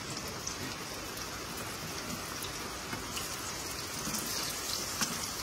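Egg-battered pacaya flowers frying in a skillet: a steady, even sizzle, with a couple of faint clicks.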